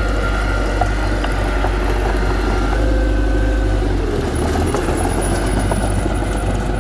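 Diesel engine of heavy earthmoving machinery running steadily, with a faint whine over it; the sound shifts about four seconds in.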